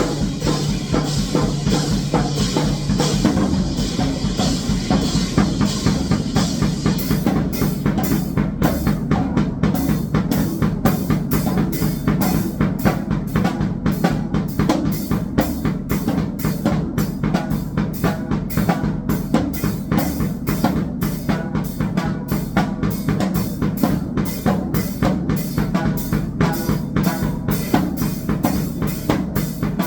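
Drum kit played fast and dense in grindcore style, with bass drum and snare hitting continuously and no breaks.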